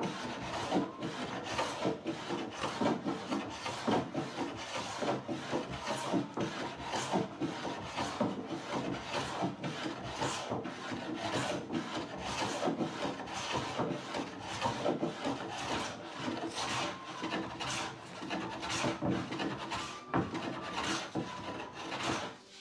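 Hand sanding or scraping on the wood of a door, in quick back-and-forth strokes about two to three a second, stopping near the end.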